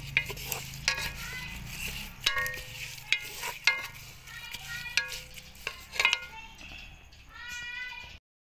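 Sliced lemongrass and chilies sizzling in hot oil in a metal pot while a wooden spatula stirs them, with repeated clicks and scrapes of the spatula against the pot. The sizzle is quieter in the last couple of seconds, and the sound cuts off abruptly near the end.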